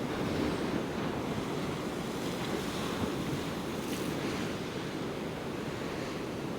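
Rough North Sea surf surging against a sea wall in a gale, a steady wash of waves with wind buffeting the microphone.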